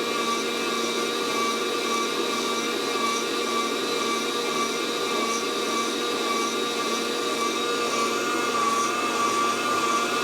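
Fresh Roast SR 800 hot-air coffee roaster running at full heat with a steady fan whir and whine, blowing hot air through the beans around first crack.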